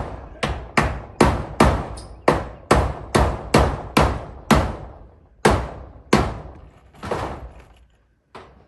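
Hammer driving roofing nails through corrugated zinc sheets: a quick run of sharp blows, two to three a second, each ringing briefly. The blows slow and space out after about five seconds, with a last single strike near the end.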